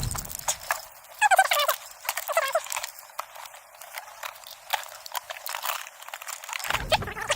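Footsteps crunching and splashing through marsh water and vegetation as hunters wade to a new spot, with two short wavering calls about a second and two seconds in.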